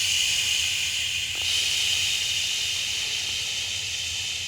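A long, steady hiss of breath pushed through the mouth, an audible breathwork breath held for about five seconds and fading near the end.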